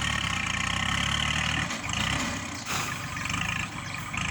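Kubota L40-series tractor's diesel engine working under load. It runs steadily, then from about halfway through its level dips and surges again.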